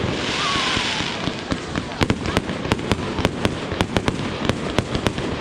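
Fireworks going off: a rapid, irregular string of sharp pops and crackles, several a second, with a hiss during the first second.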